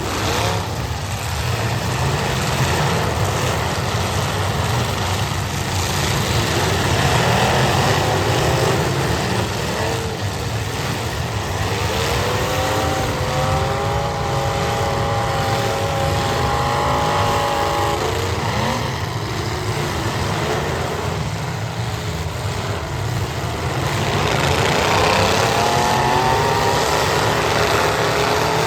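Demolition derby cars' engines running together, with engines revving up and holding high several times, about halfway through and again near the end.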